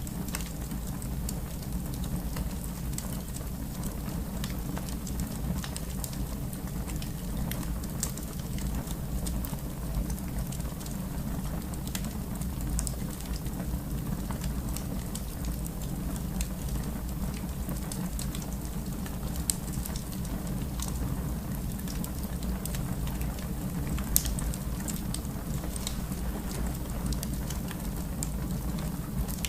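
Wood fire crackling in a fireplace: a steady low rumble with many small scattered pops, and a sharper pop about 24 seconds in.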